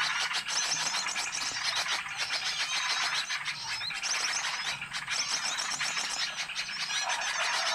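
Bird-lure (pikat) recording of many small birds calling at once: a dense, noisy mix of overlapping chirps, trills and twitters that runs without a break.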